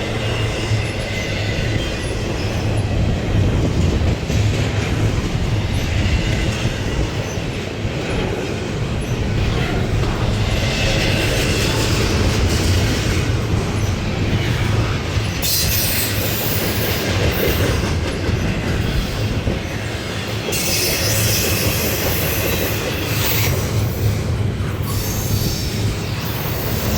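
Freight cars of a Norfolk Southern intermodal train rolling past: a steady rumble of steel wheels on rail with clacking, and two stretches of harsher high-pitched noise in the second half.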